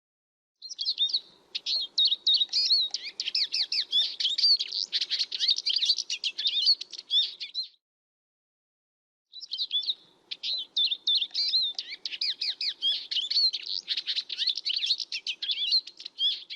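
Siskin singing: two long phrases of rapid, twittering high notes, each about seven seconds long, with a short pause between them.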